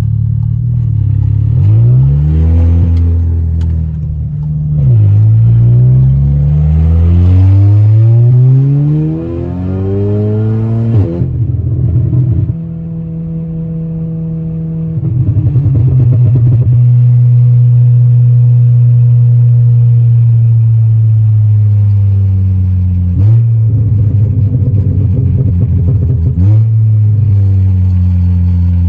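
Stage 3 tuned Volkswagen Golf R's turbocharged four-cylinder engine accelerating hard twice, its pitch climbing each time, then settling into a steady cruise. Sharp cracks come about eleven seconds in and twice more near the end.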